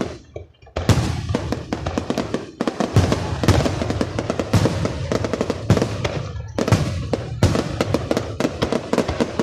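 Fireworks display: a dense, rapid run of cracks and bangs from bursting shells. There is a short lull just after the start and a few brief dips later on.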